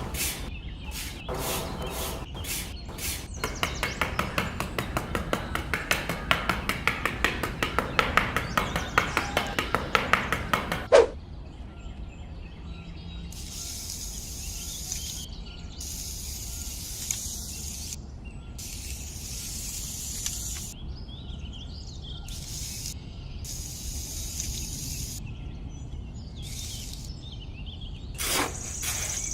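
Rapid, even tapping or light knocking, several strokes a second, growing louder and ending in one sharp knock about eleven seconds in. After that, short bursts of hiss come and go, each lasting a second or two.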